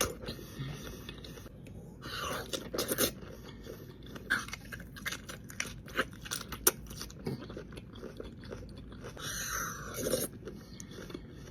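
Close-up eating sounds: a person biting and chewing food, with many short, irregular mouth clicks and a few louder bites.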